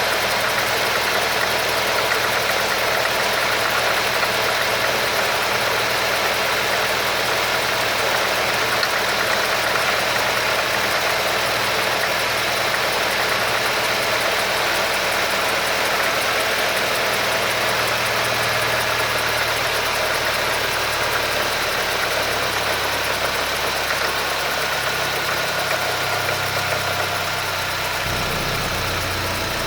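Audi A4 B6's 2.0-litre four-cylinder (ALT) petrol engine idling shortly after a cold start, making unusual noises whose cause the owner does not know. The low engine note shifts in pitch in the second half.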